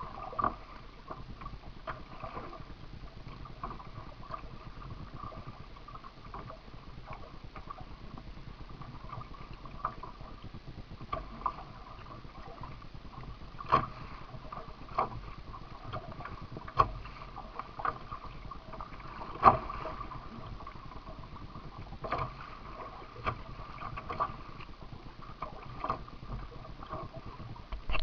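A kayak being paddled through water: a steady wash of water with irregular sharp splashes or knocks every one to three seconds.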